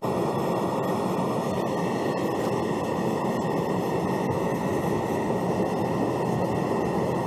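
Aluminium-melting furnace running: the burner and its blower make a steady rushing noise with a faint high whine.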